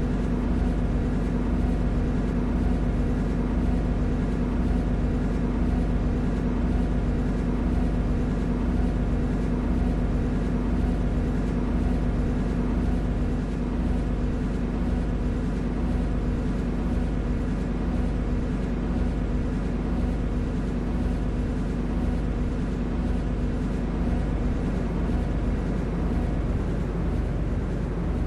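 MTR Tseung Kwan O line C-Train heard from inside the carriage: a steady rumble of the train with a constant hum underneath, the hum fading near the end.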